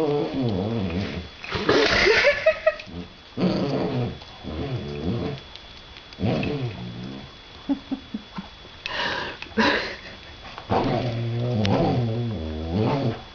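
A dog making weird, wavering vocal noises in about seven drawn-out bouts with short pauses between, the pitch sliding up and down within each.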